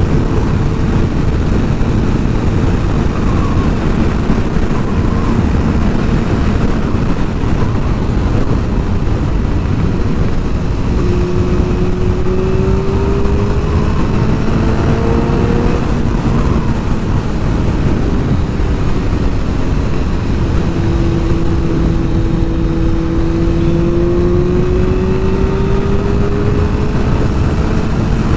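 Sport motorcycle under way, with heavy wind noise on the microphone. The engine's note rises slowly twice as the bike accelerates.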